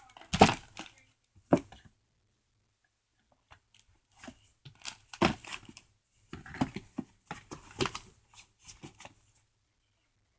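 Fireworks and their cardboard and plastic packaging being handled and moved in boxes: irregular rustling and crinkling in short bursts, with a pause after about two seconds and stopping about a second before the end.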